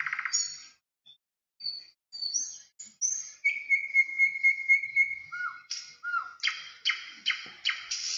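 Birds chirping and whistling: scattered short calls, a long held whistled note near the middle, then a run of quick repeated notes near the end.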